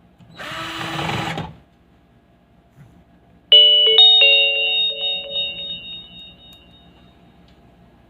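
A short burst of noise lasting about a second, then a few quick bell-like electronic chime notes about three and a half seconds in that ring out and fade over about three seconds.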